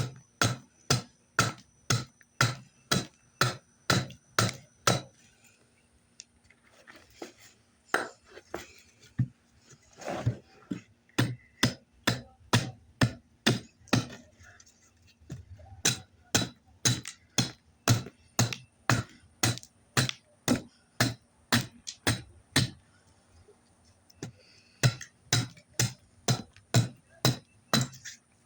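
A tool striking oak wood in a long steady run, about two to three sharp blows a second, with short breaks about five seconds in and near the end. The blows are knocking the bark off an oak handle blank.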